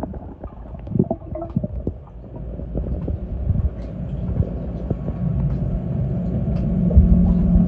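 Muffled sound heard underwater as a swimmer moves through a pool: low rumbling water noise with scattered knocks. A steady low hum grows louder in the second half.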